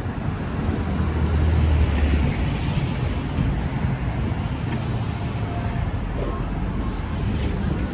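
City street traffic: vehicles passing with a steady noisy hiss and a low rumble that swells about a second in.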